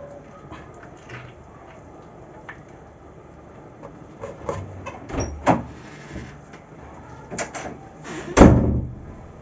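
Light clicks and knocks of kitchen handling, then a door shut with a loud bang about eight seconds in.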